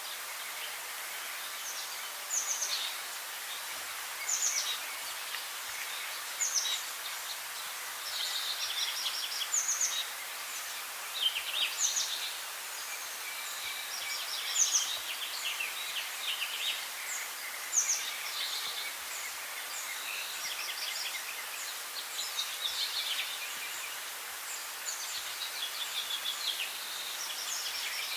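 Several songbirds calling and singing, with short high chirps and quick trills every second or two, over a steady hiss of forest background.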